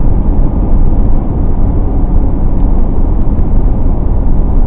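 Steady road noise of a car driving along: a loud, even, low-pitched rush of tyres and engine with no sudden sounds.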